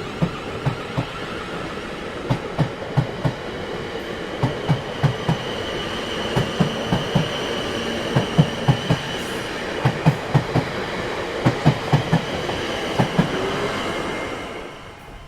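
Train carriages rolling past, their wheels clacking over rail joints in quick pairs and groups over a steady rumble, with a high steady whine above it. The sound fades out near the end.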